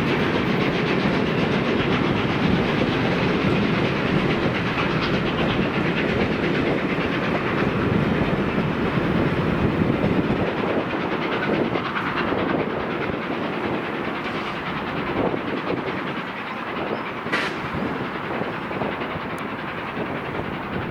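A passing mainline steam excursion train, its carriage wheels clicking steadily over the rail joints. The sound grows quieter about halfway through as the train draws away.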